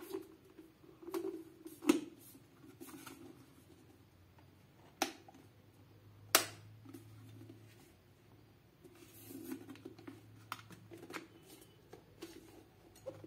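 Sharp plastic clicks and knocks of a Pigeon electric kettle being handled for a test, then a faint steady low hum that sets in about six seconds in and keeps going.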